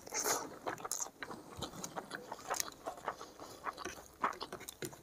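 Close-miked chewing of a mouthful of rice and egg curry: irregular wet mouth clicks and smacks.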